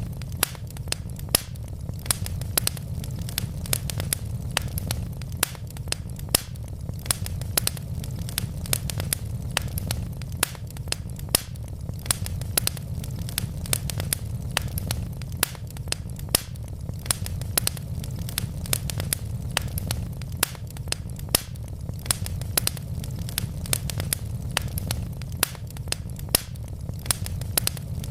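Wood logs burning in a fireplace, crackling with frequent sharp pops, several a second, over a steady low rumble.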